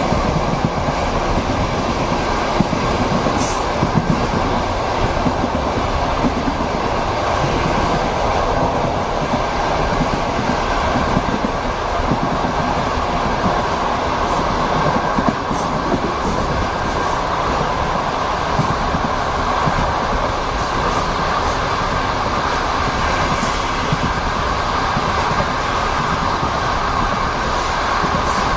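Passenger train running, heard from inside a sleeping-car compartment: a steady rumble with the clatter of wheels over the rails. Occasional brief high-pitched ticks sound over it.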